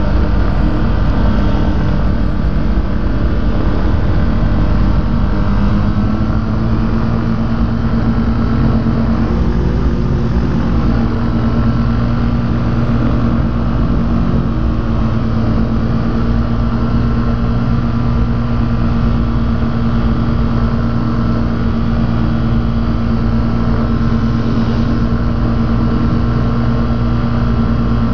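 Rotax engine of a Quad City Challenger ultralight running steadily, its pitch stepping up slightly about six seconds in and then holding.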